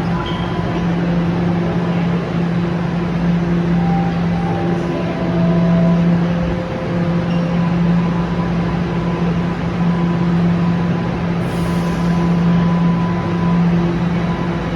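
Toronto Line 1 subway train running: a steady loud rumble with a constant low hum, and brief higher motor tones that step down in pitch a few seconds in.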